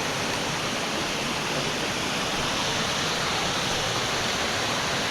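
Steady rush of water cascading down Pipestem Falls, a long multi-tiered waterfall, heard close by.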